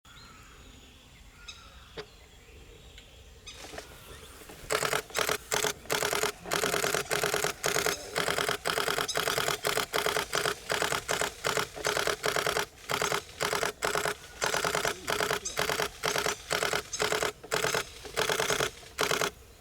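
Nikon D500 DSLR shutter firing in rapid continuous bursts, loud and close, one burst after another from about five seconds in until near the end. Before that there is only faint background.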